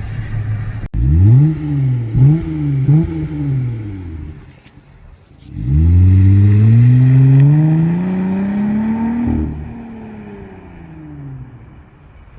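Jeep Gladiator's V6 engine, with the muffler removed and the resonator kept, accelerating as heard from inside the cab: three quick climbs and drops in engine pitch, a short lull, then one long steady climb that cuts off about three-quarters of the way through and dies away.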